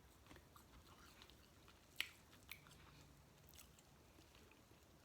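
Close-miked chewing of seafood, mostly faint, with a few sharp wet clicks, the loudest about two seconds in.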